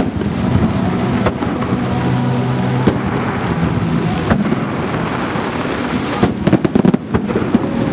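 Fireworks salute: a continuous rumble of shells bursting, with sharp bangs about one, three and four seconds in and a quick run of crackling reports around six to seven seconds in.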